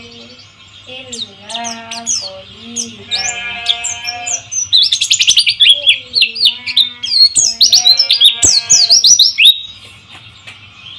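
White-eye (pleci) song: scattered high chirps, then about halfway in a loud, dense run of rapid chirping lasting several seconds that stops abruptly. Lower wavering pitched calls sound underneath, over a steady hiss of flowing water.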